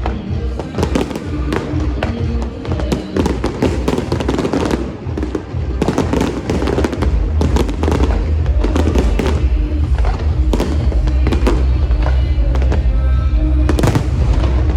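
Fireworks bursting and crackling in quick succession over loud music with a heavy bass.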